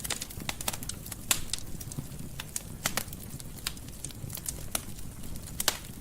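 Fireplace fire crackling: a steady low rumble of flames with frequent sharp crackles and a few louder pops.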